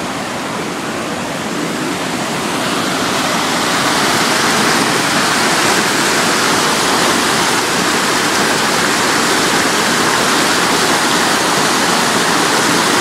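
Swollen, fast-flowing stream rushing and churning over rocks, loud and steady, swollen with floodwater runoff from days of heavy rain. It grows louder about three seconds in and then holds.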